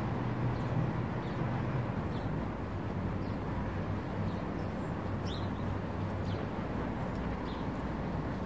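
Outdoor car-park ambience: a steady low hum of a car engine running, with short high bird chirps now and then.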